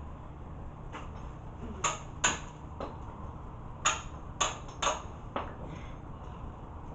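A hammer striking a tool about eight times at an uneven pace to break loose a part done up too tight during an oil change.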